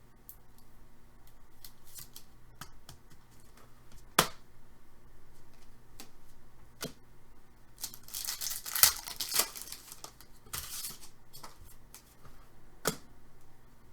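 Trading cards and their pack wrappers being handled: scattered sharp clicks and taps, and a couple of bursts of wrapper crinkling and tearing, the loudest about nine seconds in.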